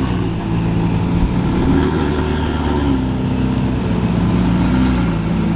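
Lamborghini Aventador's V12 engine idling, its pitch shifting slightly a couple of times as it creeps along.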